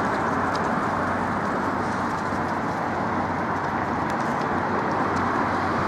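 Steady road traffic noise, a continuous rush of passing cars with a low hum beneath.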